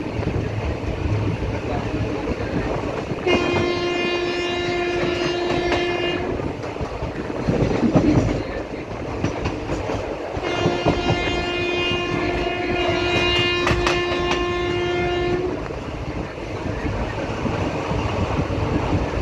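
Locomotive horn sounding two long steady blasts, the first about three seconds long and the second about five, over the steady running noise and wheel clatter of a moving passenger train. A brief loud rush comes between the two blasts.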